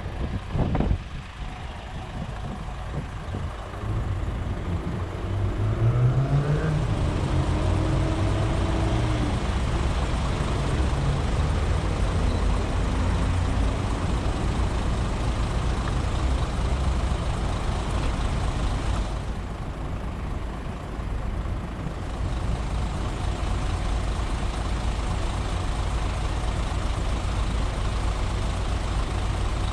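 Steady low rumble of wind and tyre noise from a fat bike being ridden on 4.4-inch Schwalbe Jumbo Jim tyres. A motor vehicle's engine rises in pitch and passes about six seconds in.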